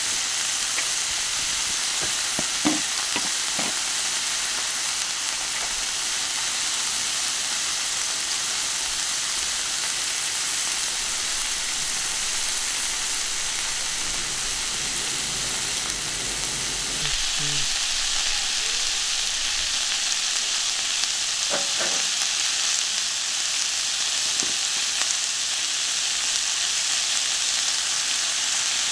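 Kalbi beef sizzling steadily on a hot iron griddle plate, with a few light clicks of utensils against the plate.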